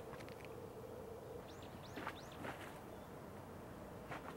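Faint outdoor background hiss with a bird chirping three quick arching notes about halfway through, plus a few soft knocks.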